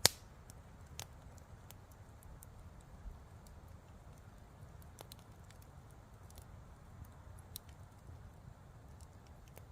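Campfire crackling faintly, with scattered sharp pops every second or so over a low steady rumble.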